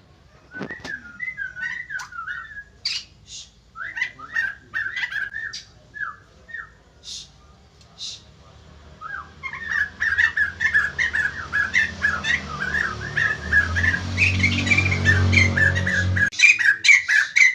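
White-crested laughingthrush calling in short whistled phrases with sharp high chirps. It then breaks into a long run of rapid, chattering calls that cuts off suddenly near the end, over a low hum that grows louder beneath it.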